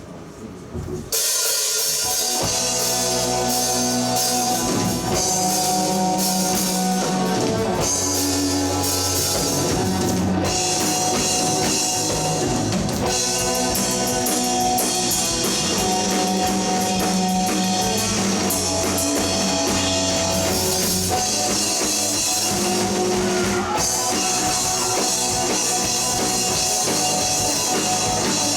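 Rock band playing live, with guitars, bass guitar and drum kit all coming in together about a second in and then playing on at a steady loud level.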